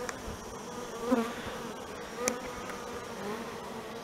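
Honey bees buzzing around an opened hive, a steady hum that swells briefly about a second in. A single sharp click comes a little past two seconds.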